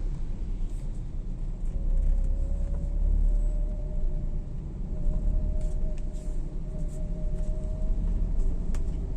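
A vehicle's engine and road noise: a steady low rumble with a faint even whine that sets in about two seconds in.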